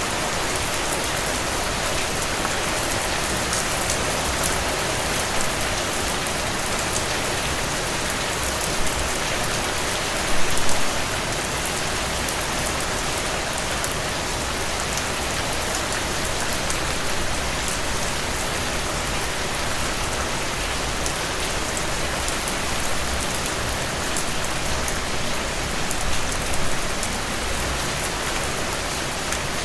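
Steady, dense rainfall with a constant hiss of drops on a surface, and a couple of brief louder splashes about ten seconds in and near the end.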